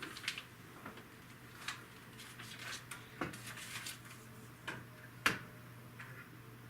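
Plastic Lego bricks clicking and rattling as pieces are handled and fitted together, in scattered sharp clicks, the loudest about three and five seconds in.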